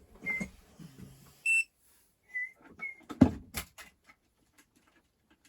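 Digital soldering station being switched on and set: one short electronic beep, a few softer, slightly lower chirps, then several clicks and a loud knock a little over three seconds in.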